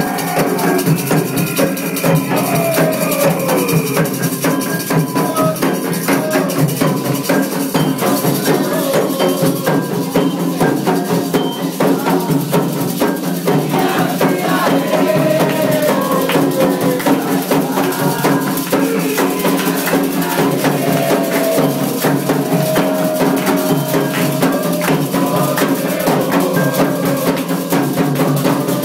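Candomblé ceremonial music: hand drums and rattling shakers playing a busy, steady rhythm, with voices singing over it.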